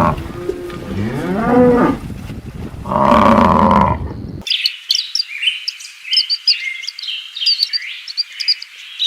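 Two long, low animal calls, the first bending up and down in pitch. About four seconds in, after a sudden cut, a flurry of high, quick bird chirps and trills follows.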